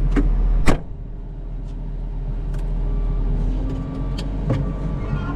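Cat 906 wheel loader's diesel engine running under work. A sharp knock comes just under a second in; the engine sound then drops and gradually rises again.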